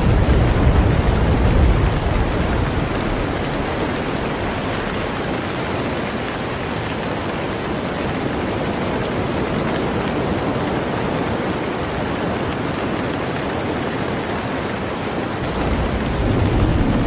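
Heavy rain falling on a boat, a steady dense hiss. A low rumble sits under it for the first couple of seconds and comes back near the end.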